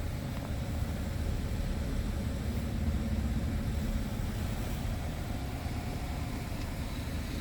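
Diesel engine of a 2007 Scania P truck running steadily, a low rumble.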